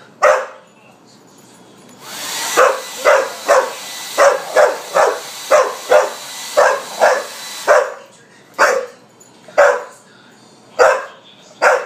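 Pit bull barking repeatedly at a Revlon blow dryer. The dryer's steady rush comes on about two seconds in and cuts off about six seconds later, with the barks coming fast, about two a second, while it runs. Slower single barks follow once it is off.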